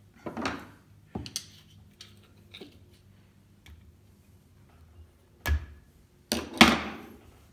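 Hand work in a jet ski's engine bay: a few knocks and clicks with short scraping bursts as hoses and fittings are pulled and handled. The strongest are a knock about five and a half seconds in and a scrape just after it.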